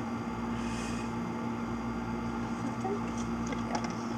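Steady low mechanical hum, with a few faint light clicks near the end.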